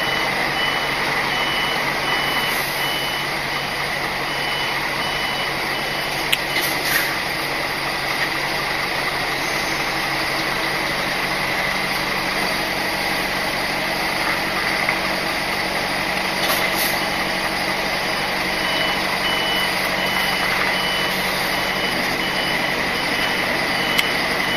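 Articulated lorry's diesel engine running steadily, heard from the cab, with a steady whine. A high-pitched reversing alarm beeps evenly for the first few seconds and again near the end, and a few brief clicks sound in between.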